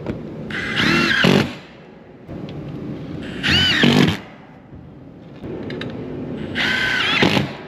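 Power drill run in three bursts, each about a second long, its pitch rising and falling within each burst.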